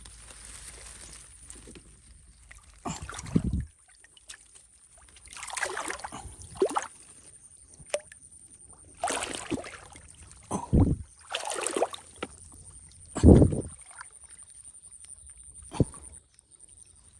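Shallow muddy rice-field water splashing and sloshing in a series of separate bursts, several with heavy low thuds, as a large fish is grappled by hand. The loudest thud comes about 13 seconds in.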